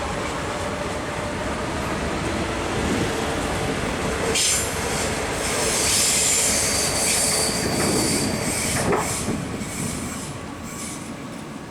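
Train running along the track. From about four seconds in, its wheels squeal high against the rails for several seconds, and the sound fades near the end.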